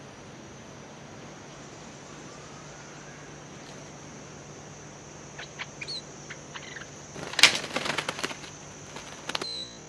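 Stripe-throated bulbuls: a few short, sharp chirps, then a loud flurry of wing flapping about seven seconds in as a bird lands on the hanging bamboo cage, and a short whistle near the end.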